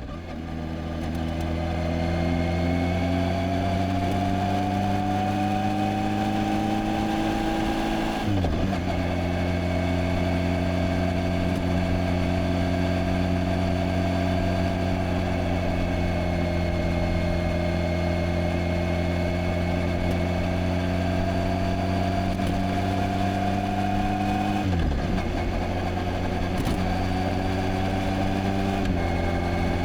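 Kawasaki Z H2's supercharged inline-four engine running steadily while riding, its note climbing slowly at first. The engine note drops sharply and recovers about eight seconds in, and again about twenty-five seconds in.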